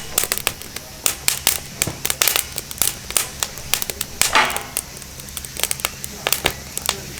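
Wood fire burning in a fire grill, crackling with frequent irregular sharp pops and snaps.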